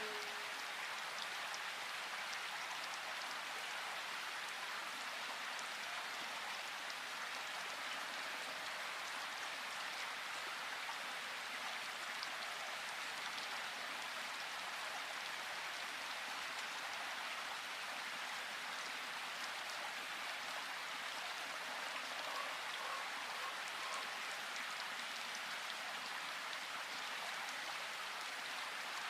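Steady rain falling in a forest, an even patter with no let-up.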